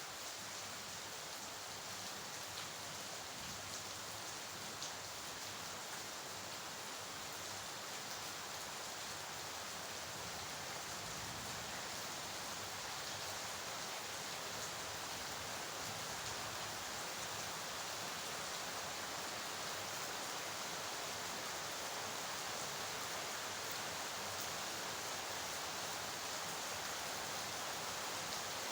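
Steady rain falling: a dense, even hiss with faint scattered drop ticks, growing slightly louder through the stretch.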